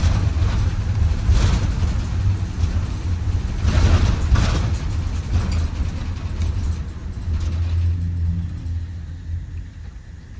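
Ride noise of a Micro Bird Girardin G5 bus: a steady low engine and road rumble with a few louder rattling surges, easing off and getting quieter over the last couple of seconds.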